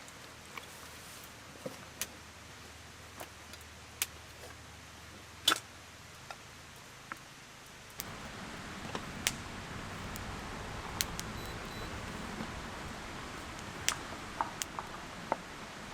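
Scattered sharp clicks and taps over a steady hiss, which grows louder about halfway through.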